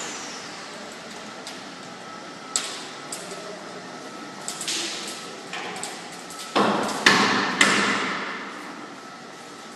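Several sharp knocks and clanks at irregular intervals, the loudest three close together past the middle, some with a short ring, over a steady background hiss.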